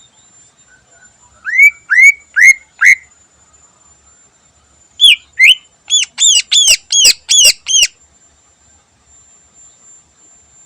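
Green leafbird (cucak ijo) singing: four loud upslurred whistles about a second and a half in, then, after a short pause, a quick run of about nine arched whistled notes.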